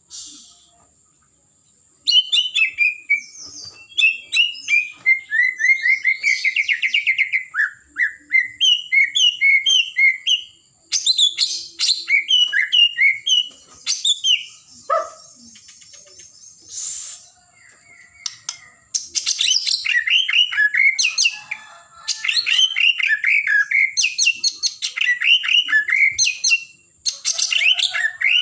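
White-rumped shama (murai batu) singing: rapid runs of varied whistled and chattering phrases with short pauses, starting about two seconds in and thinning out briefly about halfway through.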